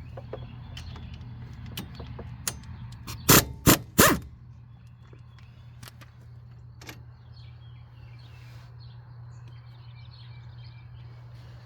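An impact wrench fires three short bursts in quick succession about three to four seconds in, working a front wheel hub bolt. A steady low hum and light clicks of tools make up the rest.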